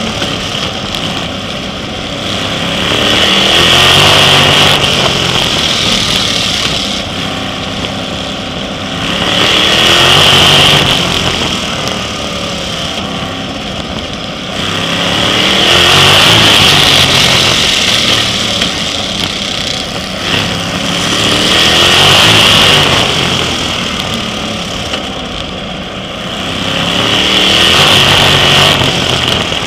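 Sprint car engine racing around a short oval track. It revs up and gets louder along each straight, then drops as the car lifts for the turns, in a regular cycle about every six seconds.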